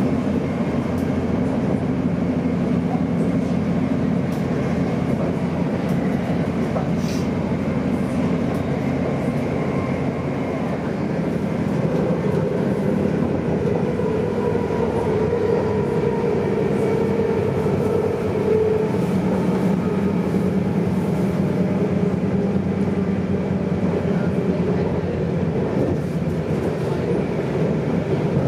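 Electric passenger train heard from inside the carriage while running at speed: a steady rumble of wheels on track with motor hum. The hum tones shift in pitch about halfway through.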